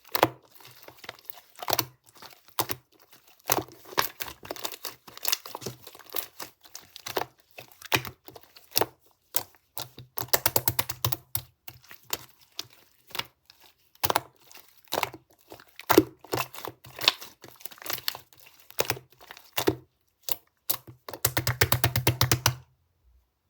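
Marbled slime being pressed and stretched by hand, giving off sharp clicks and crackles. There are two runs of rapid clicking, one about ten seconds in and one near the end, and then it stops.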